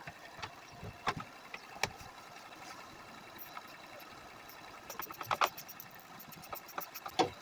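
2006 Toyota Sienna's V6 idling steadily at a normal idle, the high idle cured now that the torn air intake hose behind the vacuum leak has been replaced. Several sharp clicks and knocks sound over it, from handling the plastic engine cover, with a cluster about five seconds in.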